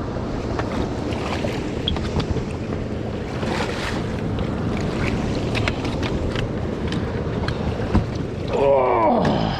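Wind on the microphone and water noise aboard a small fishing boat, with scattered clicks. Near the end, a short cry falls steeply in pitch.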